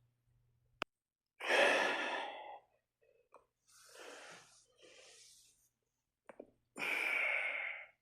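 A person's heavy breaths or sighs, three in a row: a loud one about a second and a half in, a faint one around four seconds, and another near the end. A single sharp click comes just before the first.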